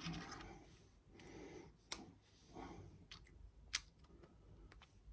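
Plastic Lego pieces being handled and pressed together: two sharp clicks, about two seconds apart, over soft rustling.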